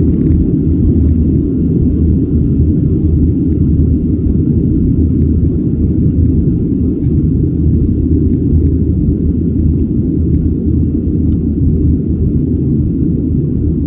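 Steady low rumble of an airplane's engines in flight, heard from afar, with no rise or fall.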